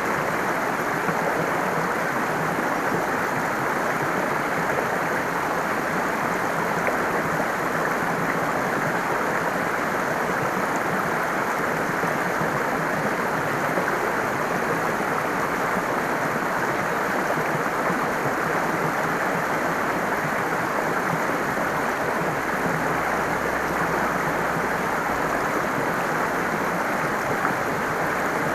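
Flowing stream water rushing steadily, an even noise with no breaks or changes.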